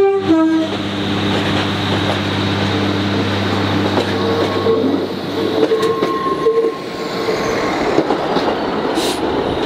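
Class 153 single-car diesel unit pulling out: a short two-tone horn toot, high then lower, right at the start. Then its diesel engine runs with a steady low note, which drops away about two-thirds of the way through, while the wheels roll and thin squeals come and go.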